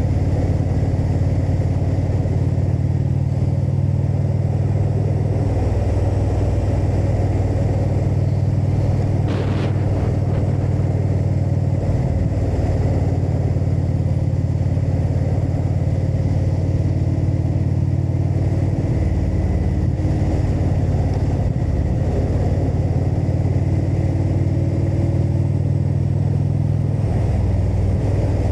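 Indian Super Chief Limited's V-twin engine running under way, a steady low hum whose pitch steps up or down a few times, over wind and road noise.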